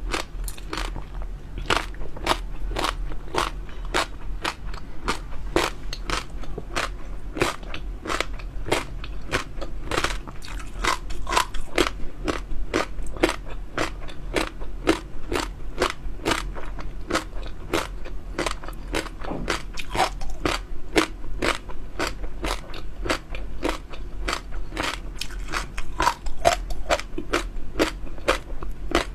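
A person chewing crunchy popping pearls with a water-chestnut filling close to the microphone: a steady run of crisp crunching clicks, about two to three a second.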